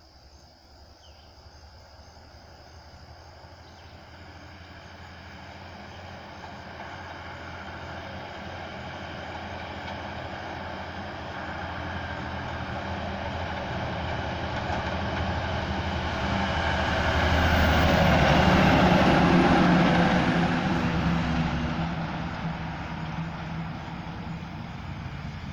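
Dump truck driving past: engine and tyre noise build slowly as it approaches, are loudest about three-quarters of the way through, then fade as it moves away.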